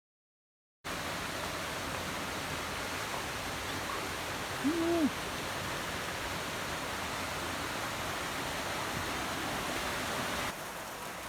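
Steady rushing of a waterfall, starting abruptly about a second in and dropping a little in level near the end, with one brief hoot-like call about halfway through.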